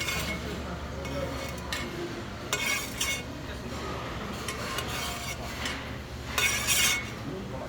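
Eating utensils scraping and clinking against a dish during a meal, with two louder scrapes, one about two and a half seconds in and one near the end, over a steady low hum.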